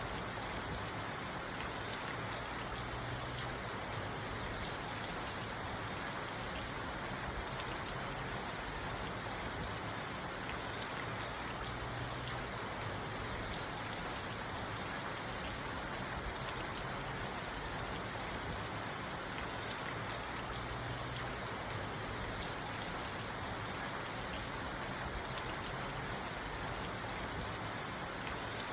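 Steady rain falling on a parked car, heard from inside the cabin: an even hiss of rain with many small drop ticks on the car's body and glass.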